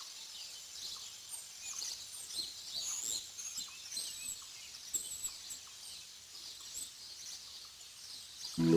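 Many small birds chirping and calling at once, short high chirps and whistles overlapping. Music comes in right at the end.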